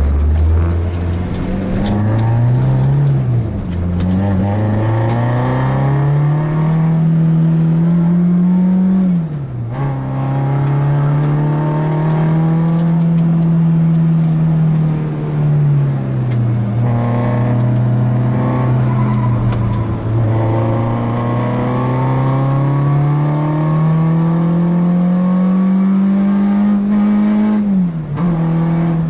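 Renault Clio 2 RS's 2.0-litre four-cylinder engine heard from inside the cabin, pulling hard through the gears: the pitch climbs, then drops sharply at each upshift, about 3, 9 and 28 seconds in. In the middle the note eases slowly for several seconds before climbing again.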